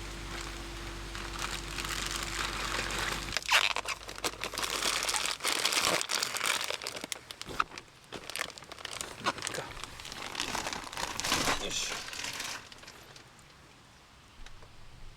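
Crinkling and rustling of material being handled, in irregular bursts with sharp clicks, stopping about three seconds before the end. A steady low hum runs underneath during the first few seconds and then cuts off.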